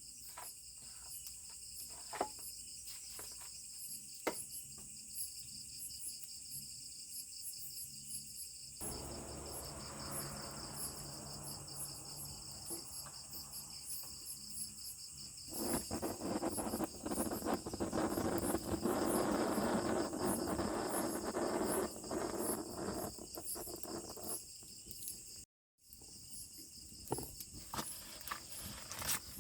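Insects chirring steadily in a high, pulsing drone, with a few sharp knocks in the first few seconds. A louder, crackly, rushing noise comes in for about six seconds in the middle.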